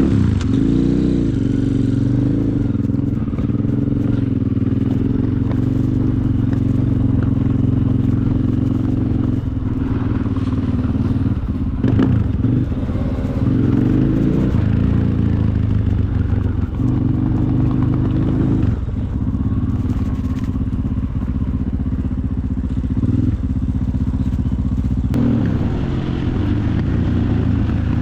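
Supermoto motorcycles riding hard, a steady engine note that steps up and down in pitch several times as the throttle and gears change, with a sharp knock about twelve seconds in.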